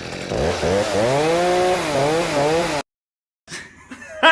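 Chainsaw revving, its pitch climbing and then wavering up and down, until it cuts off abruptly a little under three seconds in; after a moment of dead silence, short scattered sounds follow.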